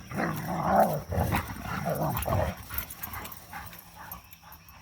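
Dogs growling and grumbling as they play-fight, loudest in the first half, then quieter.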